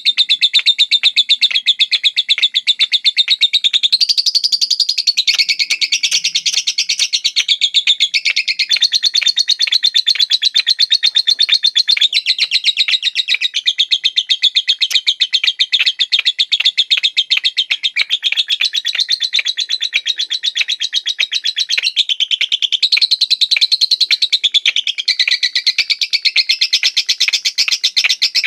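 Lovebird singing 'ngekek', a fast, regular, high chattering trill kept up without a single break and shifting slightly in pitch now and then. Such a long unbroken ngekek is the 'durasi' that lovebird keepers prize in a singing bird.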